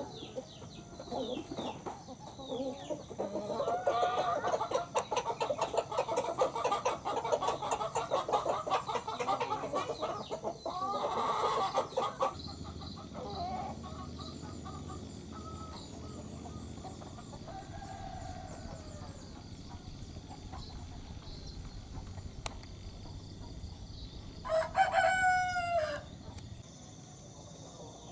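Chickens clucking busily for the first dozen seconds, then quieter. About 25 s in, a broiler rooster crows once, a loud call about a second and a half long that drops in pitch at the end.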